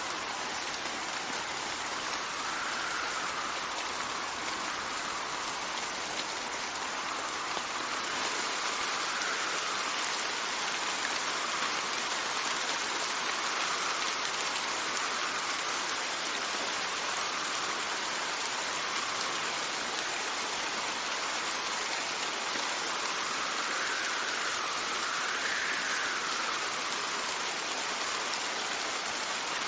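Steady rainfall hissing and pattering, with wind in slow gusts that rise and fall every few seconds.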